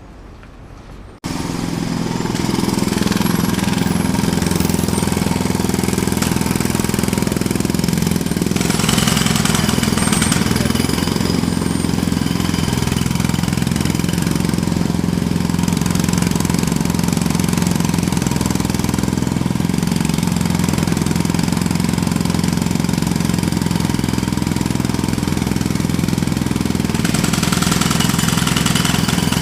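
Jackhammer starting abruptly about a second in and then hammering continuously, a dense rattle over a steady low machine hum.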